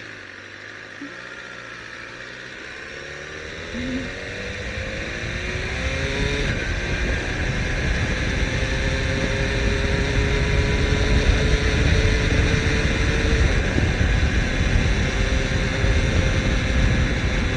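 BMW S1000R's inline-four engine pulling away and accelerating, its pitch rising through the first few seconds, then running at a steadier speed. Wind rush on the microphone grows louder as the bike gains speed.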